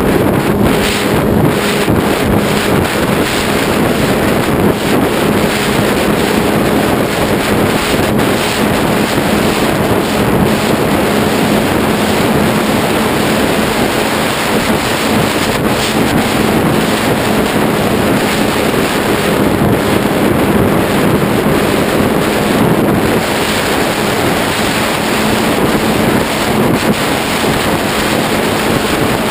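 Heavy wind rush buffeting the microphone, with the steady hum of a Ritewing Zephyr II flying wing's electric motor and propeller underneath. The hum fades for a while and comes back stronger in the second half.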